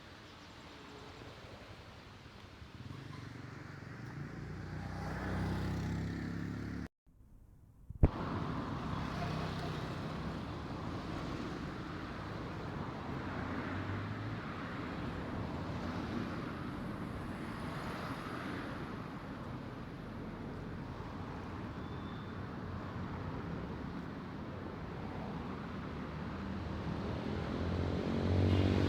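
Road traffic going past: a vehicle grows louder over the first six seconds, the sound drops out for about a second and comes back with a sharp click, then a steady traffic hum, with another vehicle coming up loud near the end.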